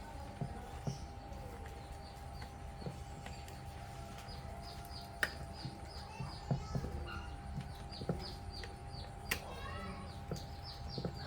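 A bird chirping in a fast series of short, falling notes, about three or four a second, starting a few seconds in. Under it are a steady hum and a few scattered sharp knocks.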